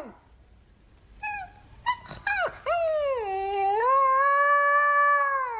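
A dog howling: a few short yelps, then one long, wavering howl of about three seconds.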